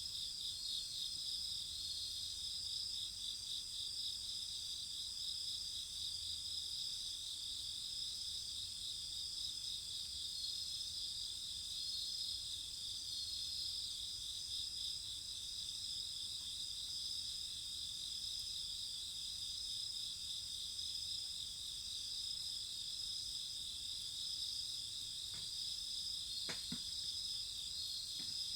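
A steady chorus of insects chirring, a fast high pulsing that never lets up, with one sharp snap near the end.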